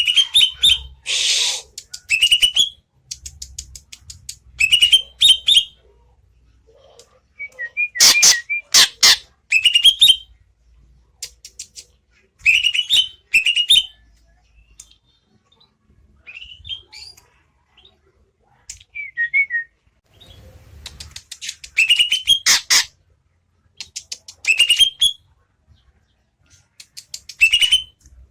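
Greater green leafbird (cucak ijo) singing: short phrases of rising whistled notes, repeated every second or two with brief pauses, and a few sharper, harsher notes about eight seconds in.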